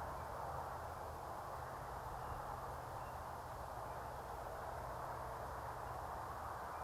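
Steady outdoor background noise: an even hiss with a low rumble underneath, and no distinct calls or knocks.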